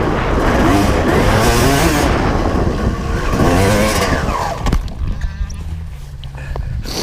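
A 1995 Honda CR250's two-stroke single-cylinder engine revving up and down while riding, with rushing wind noise. About five seconds in, the revs drop and it settles to a steady low idle.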